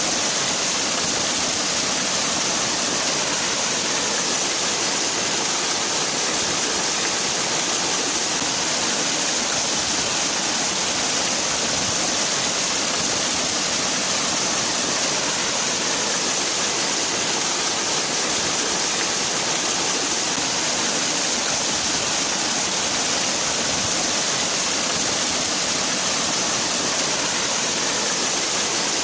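Waterfall: water falling and splashing in a steady, unbroken rush that is strongest in the high hiss.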